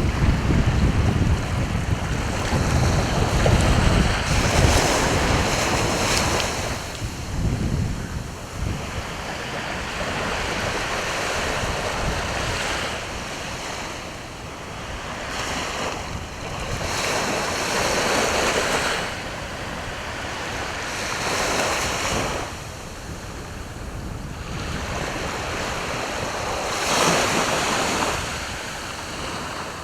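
Sea waves breaking and washing on the shore, surging every few seconds, with wind rumbling on the microphone, strongest in the first few seconds.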